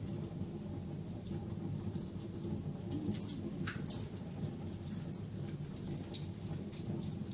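Fire in an outdoor fireplace crackling, with irregular sharp pops scattered over a steady low rumble.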